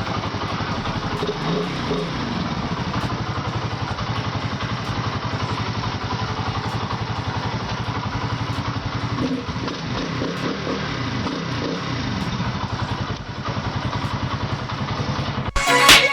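Spark SP125C-2C motorcycle's 125cc single-cylinder engine running steadily at a fairly even speed. Music cuts in just before the end.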